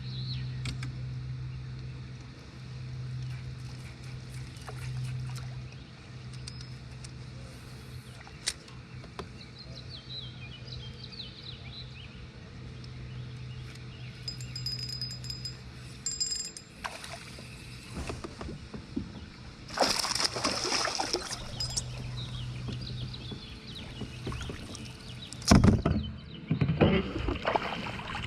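Water sloshing and splashing around a fishing kayak over a steady low hum, with bursts of splashing in the second half and a sharp knock on the hull about 25 seconds in.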